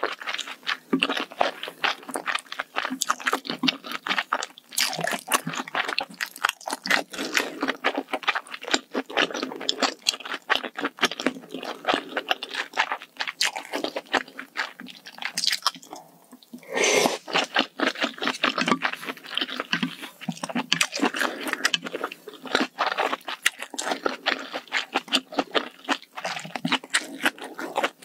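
Close-miked chewing and crunching of spicy malatang hot pot ingredients: a dense run of quick, wet crunches and mouth clicks, with a short lull a little past halfway.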